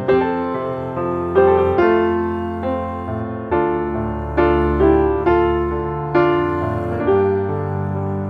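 Soft, slow solo piano music: single notes and chords struck every half second or so, each fading gently.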